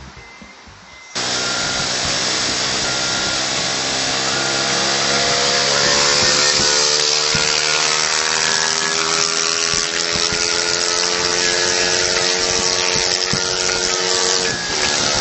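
Onboard sound of a Honda Super Cub 110 under way: its small single-cylinder four-stroke engine running steadily, its note slowly rising as the bike gains speed, with heavy wind rush over the microphone. The engine note drops briefly near the end. A quieter first second comes before the riding sound cuts in.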